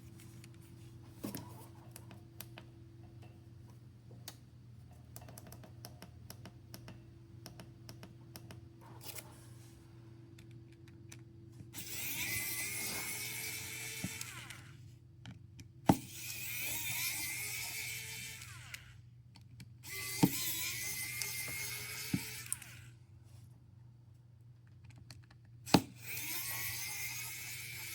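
Electric precision screwdriver whirring in four bursts of two to three seconds each, backing out the phone's screws, with small sharp clicks of tools between them.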